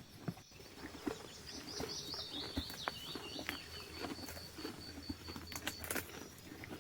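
A small bird singing: a quick high warbling phrase that runs into a steady, evenly pulsed trill lasting a couple of seconds, with scattered light knocks and rustles underneath.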